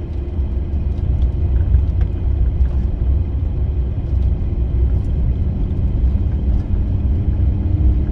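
Steady low rumble of a van driving slowly, heard from inside the cabin, with a faint engine hum and a few light clicks.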